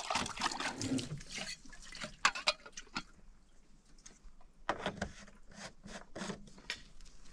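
Water splashing and sloshing for about the first second and a half, then scattered short wet clicks and knocks.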